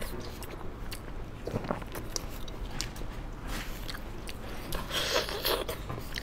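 Close-miked chewing and biting of soft braised pork intestine, with small wet clicks of the mouth and of gloved hands pulling a piece apart. It grows louder briefly about five seconds in.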